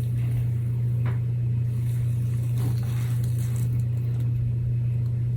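A steady low hum, even in level throughout, with a couple of faint light taps.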